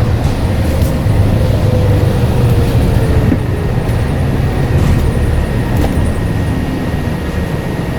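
Scania N94UD double-decker bus running, with a heavy low engine rumble. A faint tone slides slowly down over the first few seconds, and a thin steady high whine comes in about halfway.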